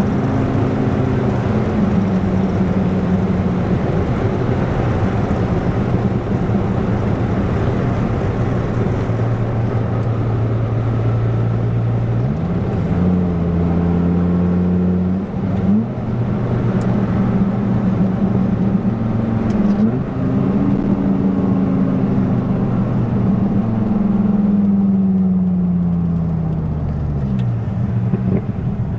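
1997 Dodge Viper GTS's 8.0-litre V10 engine and exhaust running under way in gear. The engine note jumps up in pitch three times as the car accelerates through the gears, then winds steadily down over several seconds near the end as it slows.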